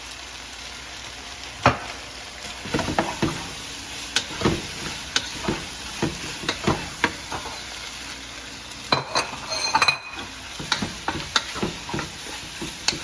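Fried chicken pieces being stirred in sizzling sauce in a pan: a steady sizzle with irregular scrapes and knocks of a utensil against the pan, and a brief ringing clink about nine seconds in.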